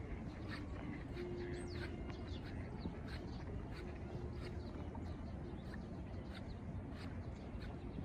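Small birds chirping over and over in short calls, one call sliding down in pitch about a second and a half in, over a steady low rumble.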